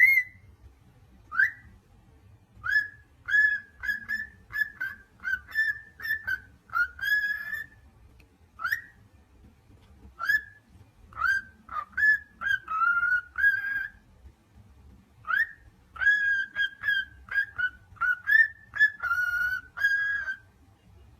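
Parrot whistling: phrases of short, clear notes, each often starting with an upward swoop, strung together quickly with brief pauses between phrases, like a tune.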